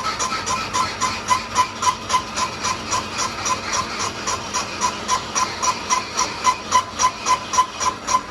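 A metalworking machine or tool on crankshaft work, making even, repeated strokes about four a second, each with a short ringing metallic note.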